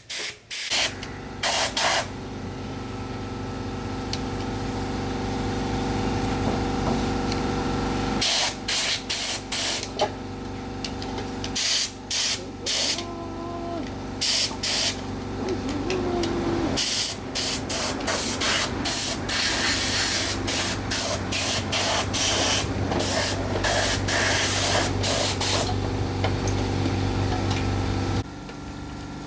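Repeated short hissing spray blasts, stopping and starting, over a steady machine hum that cuts off near the end.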